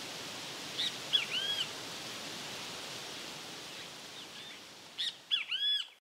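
Great kiskadee giving its loud three-note "bem-te-vi" call, once about a second in and again near the end, over a steady background hiss.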